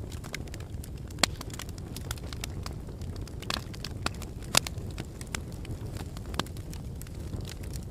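Wood fire burning in a fireplace: a steady low rumble of flames with irregular crackles and pops, two sharper pops standing out, a little after one second and at about four and a half seconds.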